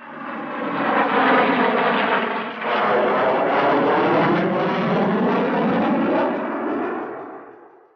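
Jet aircraft passing by, its engine noise carrying a sweeping, phasing tone. It builds within the first second, holds steady, then fades away over the last two seconds.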